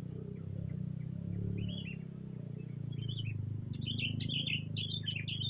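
Small songbirds chirping in short, quick notes: a few at first, then a rapid, busy run of chirps from about two-thirds of the way in. A steady low hum runs underneath.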